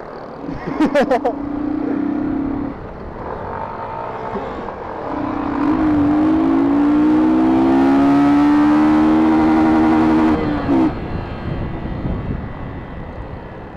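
Motorcycle engine pulling under throttle, its pitch rising slowly as it gains speed, then dropping off sharply about ten seconds in as the throttle is closed. A shorter steady engine tone sounds about a second in.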